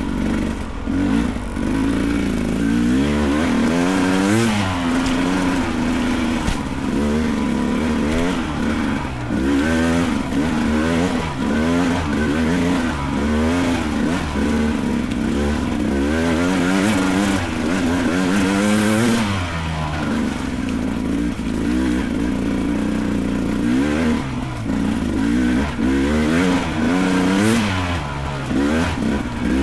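Beta 300 Race two-stroke dirt bike engine revving hard under load up a steep trail, its pitch swinging up and down every second or two as the throttle is worked on and off.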